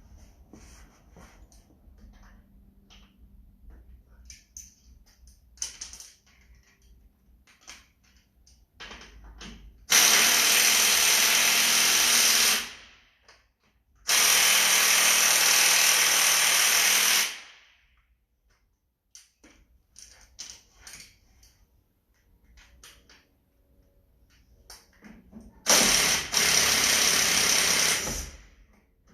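Handheld power tool such as a drill or electric ratchet, run in three bursts of two to three seconds each, each spinning down as it is released. Faint clicks and clinks of handled tools and parts come in between.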